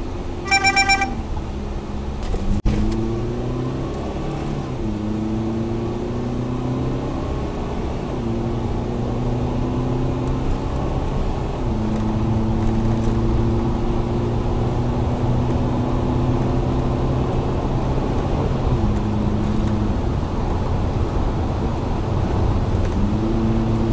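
A car engine heard from inside the cab, pulling up through the gears: its note rises, drops at each gear change and rises again, then holds steady at cruising speed over tyre and road noise. A short burst of electronic beeps about half a second in and a sharp click a couple of seconds later.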